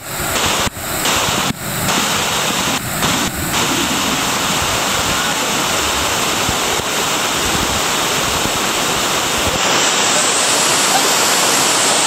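Loud, steady rushing water from a waterfall close to the microphone, with a few brief dropouts in the first few seconds.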